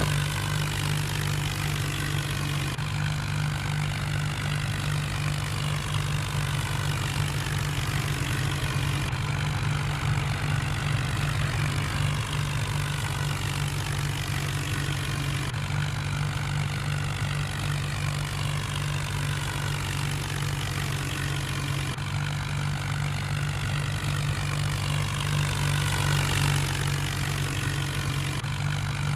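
Tractor engine running steadily at idle, a constant low hum.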